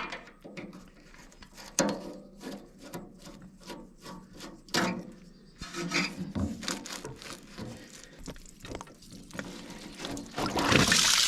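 Irregular metal clicks, knocks and scrapes of hand tools working on the Ford 8N tractor's radiator hose clamps and fittings. Near the end a steady, loud rushing noise starts.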